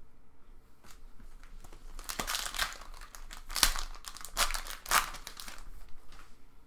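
Foil trading-card pack wrappers being torn open and crinkled, a run of sharp crackles through the middle few seconds.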